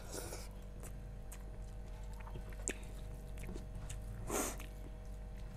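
Faint close-up eating sounds: a person chewing rice and chicken, with small wet mouth clicks and two short soft breathy noises, one at the start and one about four seconds in, over a low steady hum.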